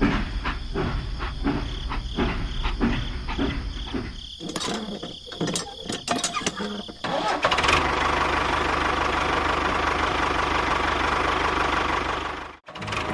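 A small motor: a rhythmic clatter of about three knocks a second, then a few irregular clicks, then steady running from about halfway. It cuts out for a moment near the end and picks up again.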